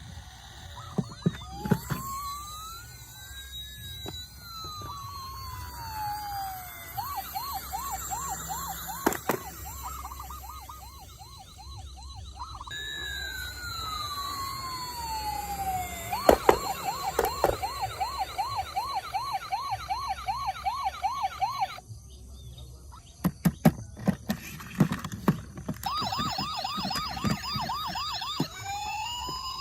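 Toy emergency vehicles' electronic sirens sounding together: slow wails that sweep up and down alternate with a fast warbling yelp, over a thin high tone. Sharp clicks and knocks come in clusters, loudest about halfway through and again a little past two thirds of the way in.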